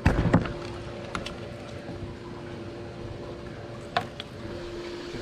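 A steady hum, with a loud knock right at the start and sharp clicks about a second in and near four seconds in.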